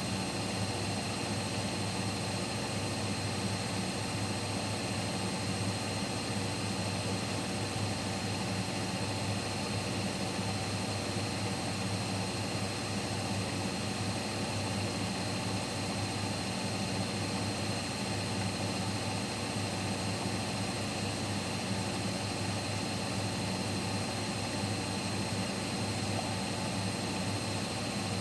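Siemens Siwamat Plus 574 front-loading washing machine in its final spin at about 800 rpm, the drum and motor running at a steady speed. It makes an even hum with a high, steady whine above it.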